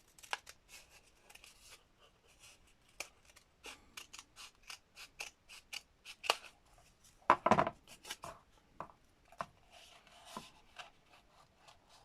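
Scissors making a series of short snips, trimming a piece to fit, with a louder handling knock about seven and a half seconds in.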